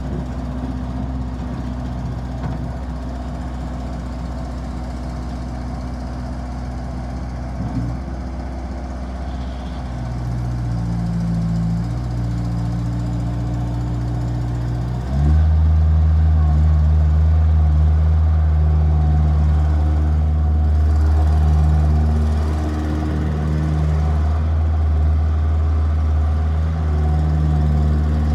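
Bobcat S175 skid steer's diesel engine idling steadily, then throttled up in steps: a little about ten seconds in, and sharply at about fifteen seconds, after which it runs louder and faster and holds there with slight wavering.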